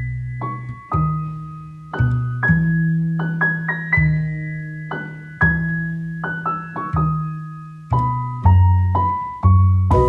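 Solo piano music: a slow melody of struck notes over held bass notes, each note dying away.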